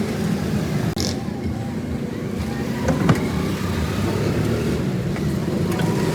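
Road traffic going by, a steady engine rumble, with a sharp knock about three seconds in.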